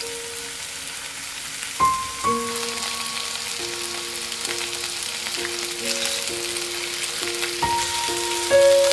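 Thin-sliced beef rolls sizzling in a frying pan, the sizzle growing stronger a couple of seconds in. Background music plays a slow melody of single notes over it.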